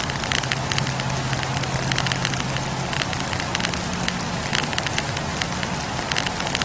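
Wood campfire burning, with many quick crackles and pops from the logs over a steady hiss, and a low steady hum underneath.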